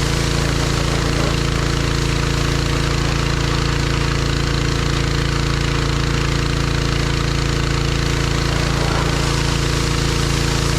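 John Deere 1025R compact tractor's three-cylinder diesel engine running steadily at an even pitch.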